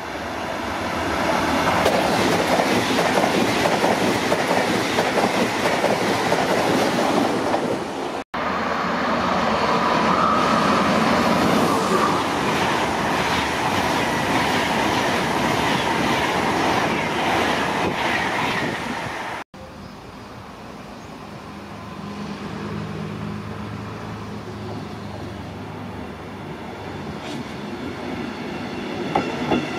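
Electric passenger trains passing close by at speed: first an ICE high-speed train, then a train of Intercity coaches, each a loud rushing of wheels on rails with some clickety-clack. The sound breaks off abruptly twice. After the second break it turns to a quieter steady electric hum as a red double-deck regional train approaches.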